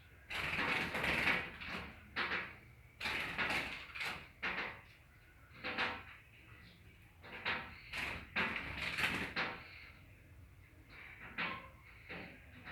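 Small bird fluttering and pecking against a mirror at its own reflection: irregular bursts of rattling, scraping and tapping, a few a second, the longest lasting about a second.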